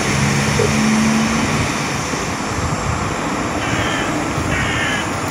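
Two trains running through the station: a PESA Elf electric multiple unit coming in while an SA134 diesel railcar runs on the next track, giving a steady rumble of engines and wheels on rail, with a low hum over the first second and a half.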